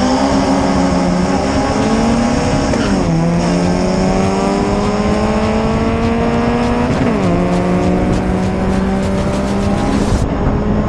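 Car engine under full throttle on a quarter-mile drag run, heard from inside the car. Its pitch climbs steadily in each gear and drops sharply at upshifts about three and seven seconds in.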